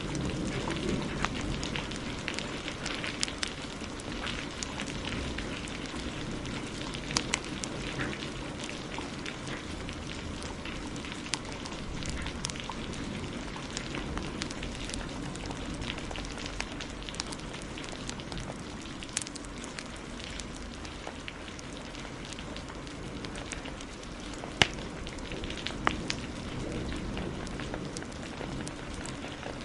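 Wood fire crackling and popping, with sharp pops scattered irregularly and the loudest about two-thirds of the way through, over a steady hiss of heavy rain.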